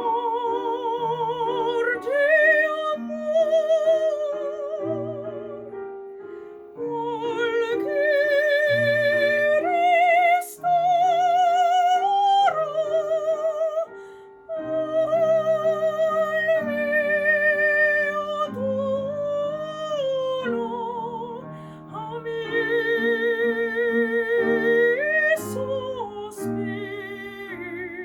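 Classical operatic singing: a high voice in the soprano range, with wide vibrato, sings long held phrases over piano accompaniment. There are short breaks between the phrases.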